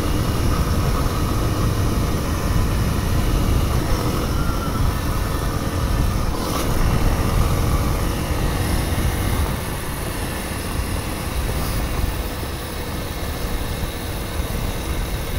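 Kawasaki KLX300's single-cylinder four-stroke engine running steadily as the dirt bike rides along a gravel road, with a dense low rumble. It eases off a little about two-thirds of the way through.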